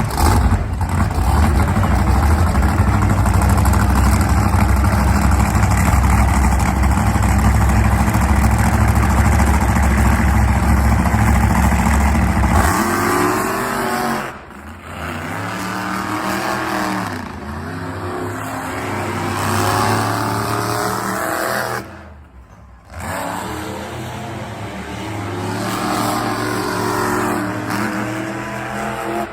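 Monster truck engine running loud and steady, then, about halfway through, revving up and down over and over, with two brief cut-offs.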